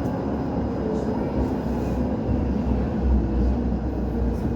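Tampere tram running along its line: a steady rolling rumble from wheels and motors, the low rumble growing heavier about halfway through.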